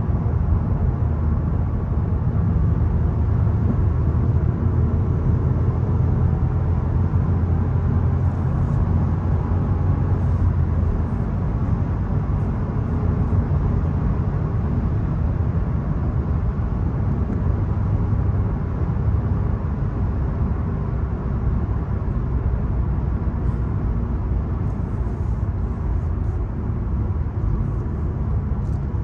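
VW Golf 1.0 TSI's three-cylinder turbocharged petrol engine running with tyre and road noise while the car is driven, a steady low drone that eases a little after about ten seconds.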